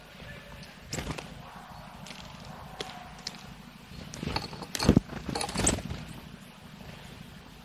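A small bird at a seed-covered bark feeder, making sharp knocks and rustles: one about a second in, then a cluster from just after four seconds to nearly six, the loudest about five seconds in. Under it runs a steady low rumble of wind noise.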